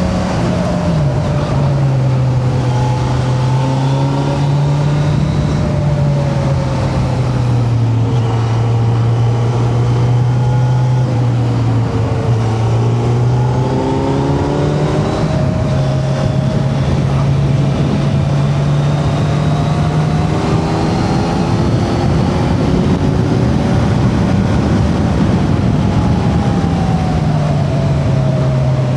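Kawasaki Z900's inline-four engine running under way, heard from the rider's seat, its note rising and falling with the throttle.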